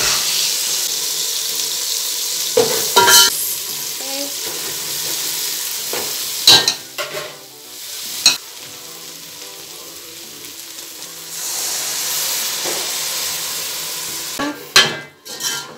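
Onions and tomatoes sizzling in hot oil in an aluminium pot while a metal spoon stirs and clinks against the side. About six seconds in the sizzling drops away after a loud clink, then comes back softer over the green grams, with more spoon clinks near the end.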